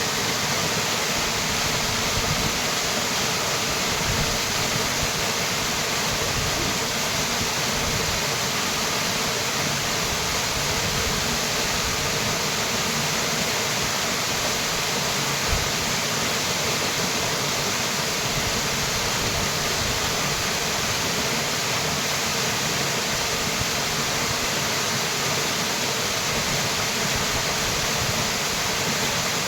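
Small waterfall running steadily: a constant, even rush of falling water, with one brief low thump about halfway through.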